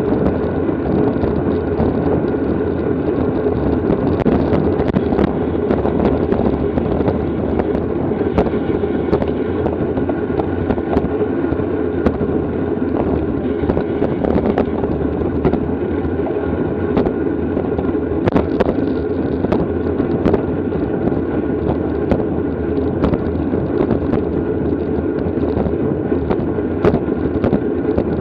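Steady wind noise on a camera microphone riding along in a bicycle criterium, dotted with frequent short clicks and rattles.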